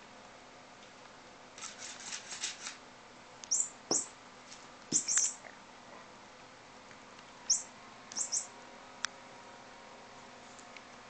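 A pet bird chirping in short, high chirps that fall in pitch, in small clusters of two or three, with a quick run of clicks or rustles about two seconds in.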